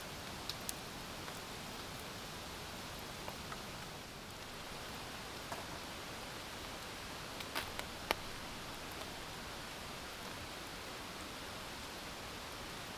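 Steady hiss of rain falling, with a few sharp ticks scattered through it, a small cluster about eight seconds in.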